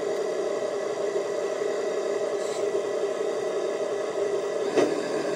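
Onboard sound module of a 1/14 scale Scania G540 RC dump truck playing a simulated diesel engine idle through its small speaker, a steady hum. A brief click comes near the end.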